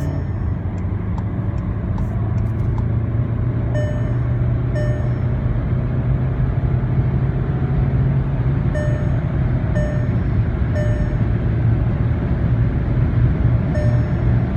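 Inside the cabin of a VW Golf 7 2.0 TDI during a flat-out acceleration run: a steady low drone of the four-cylinder diesel engine plus road and wind noise, slowly growing louder. Groups of short electronic beeps about a second apart sound over it several times.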